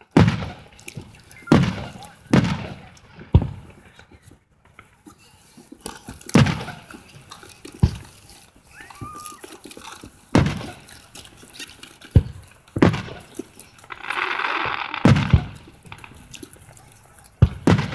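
Aerial fireworks shells bursting: about eleven separate booms spaced irregularly, one to three seconds apart. About three-quarters of the way through comes a hissing crackle lasting about a second.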